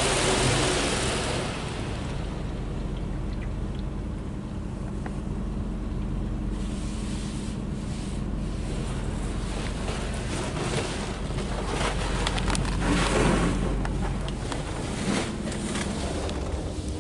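Ryko SoftGloss MAXX automatic car wash running over a car: a rush of water spray that fades in the first two seconds, then a steady machine hum with scattered splashing and slapping from about six seconds in.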